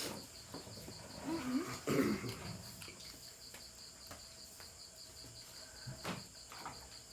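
Insects chirping in the background, a steady high trill pulsing several times a second, with a few soft clicks and a brief low murmur.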